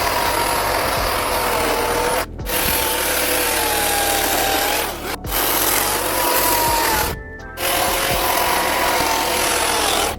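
Chainsaw cutting into wood, its engine pitch wavering as the saw is worked through the cut. It stops briefly three times and picks up again.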